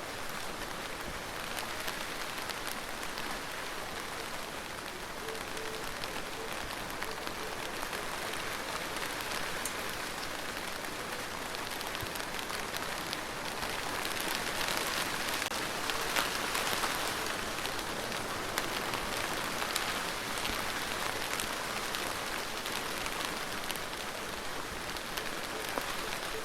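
Steady rain falling, with many small drop impacts ticking through it; it grows a little heavier past the middle of the stretch.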